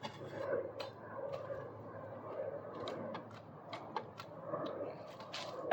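Scattered light clicks and knocks of deck boards and screws being worked apart with a pry bar.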